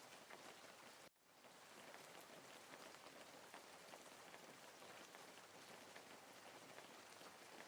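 Steady rain falling, a faint even hiss with scattered drop ticks. About a second in it cuts out for an instant and fades straight back up.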